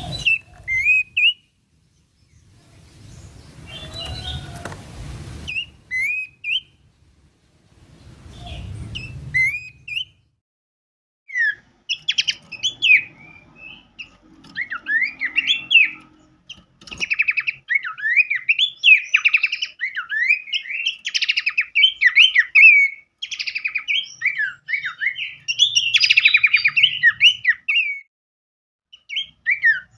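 Recorded songbird calls from a mix of species used as tutor song for caged birds. In the first ten seconds there are three harsh, raspy calls with short chirps between them. From about twelve seconds in comes a dense run of rapid, sharp chirps and trills, which breaks off briefly near the end.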